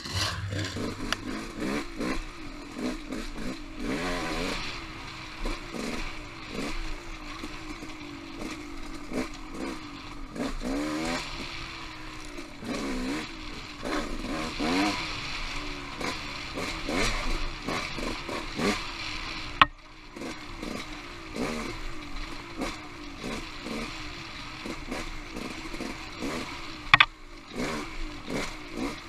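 Off-road motorcycle engine running on singletrack, its pitch rising and falling constantly with the throttle, with the bike clattering and scraping over rough ground. There is a sharp knock about twenty seconds in and a louder one about seven seconds later.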